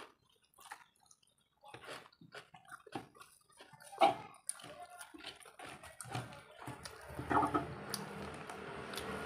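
Close-up wet chewing, lip smacks and slurping of spicy fried noodles. The sounds come as scattered short clicks and smacks, and a steady low hum comes up in the last two seconds.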